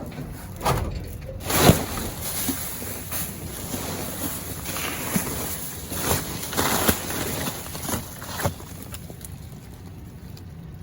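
Trash being rummaged and tossed around inside a dumpster: irregular rustling, crinkling and knocking of bags and items being moved, loudest about two seconds in.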